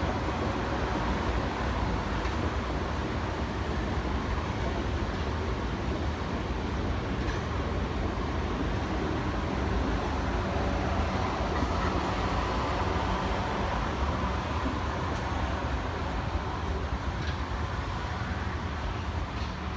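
A train running at the station: a steady rail noise with faint steady whining tones.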